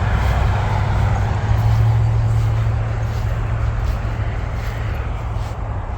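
A motor engine running steadily, a low hum that eases a little after the midpoint, with a few faint light ticks over it.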